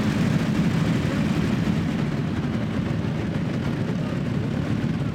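Several motorcycle engines running together in a steady, dense low rumble.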